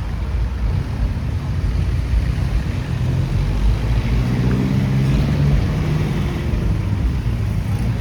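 A motor engine running, loudest and clearest from about three to six seconds in, over a steady deep rumble.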